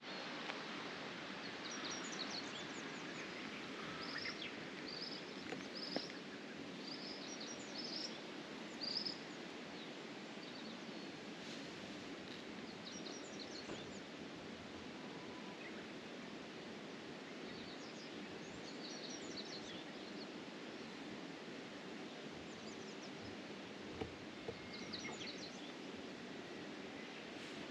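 Small birds chirping in short runs of quick high notes, several runs in the first third and a few more near the end, over a steady, even outdoor background noise.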